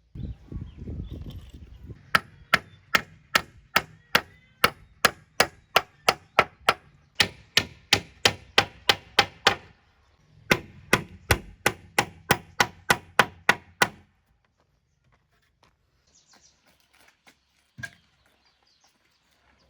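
A tool striking wood again and again, sharp evenly spaced blows at about two or three a second, with a short break about ten seconds in; the blows stop about two-thirds of the way through.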